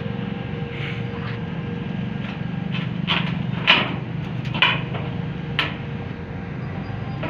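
A steady low hum with several short, sharp knocks over it, the loudest two near the middle.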